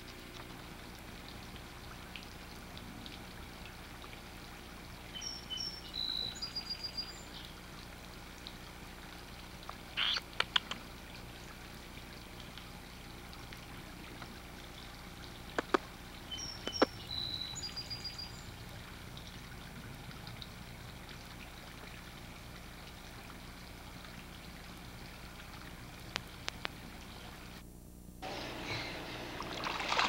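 Steady camcorder hum and hiss with a small bird's short chirping phrase twice and a few sharp clicks. Near the end, after a brief dropout, water splashing in a swimming pool.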